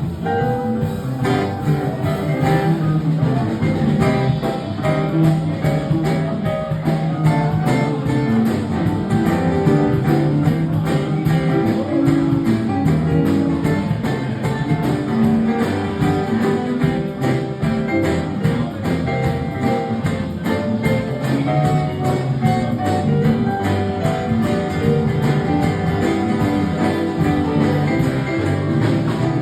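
Acoustic guitar playing an instrumental passage without singing, a steady run of strummed and picked chords.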